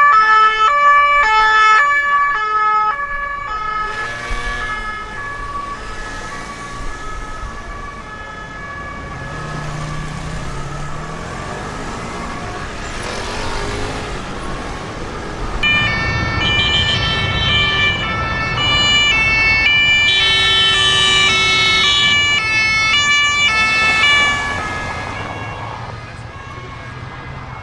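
Sirens of UK emergency vehicles driving past on blue lights. A loud alternating siren fades out over the first few seconds, vehicle engine and traffic noise fill the middle, and a second alternating siren comes in loud about sixteen seconds in and fades away near the end.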